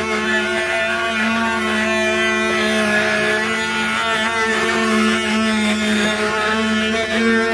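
Wooden axle of a Brazilian ox cart (carro de boi) singing: a continuous, droning squeal of several pitches sounding together, wavering slightly as the cart rolls.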